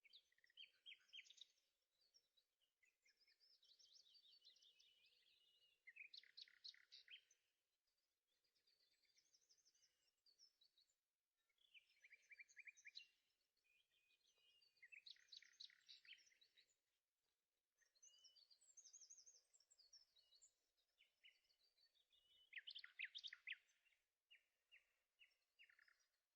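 Faint birdsong: phrases of quick chirps and trills, one or two seconds each, repeating with short pauses, including a descending run a few seconds in.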